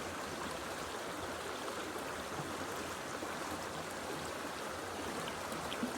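Steady rush of a flowing creek, even and unbroken.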